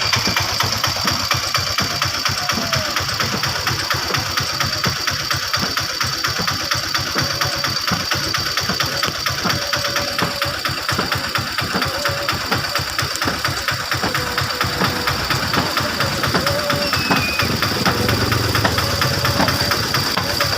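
Motorboat engine running steadily with a fast, even beat.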